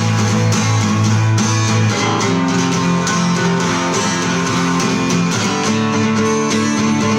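Acoustic guitar strumming chords with no singing, an instrumental passage of the song. The chord changes about two seconds in and again near the end.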